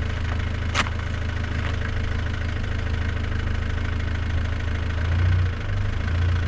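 Four-wheel-drive engine idling steadily, its revs rising briefly about five seconds in and again near the end. A sharp click sounds just under a second in.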